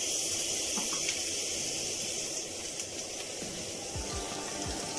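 Garlic paste sizzling in hot oil in a non-stick frying pan: a steady high hiss.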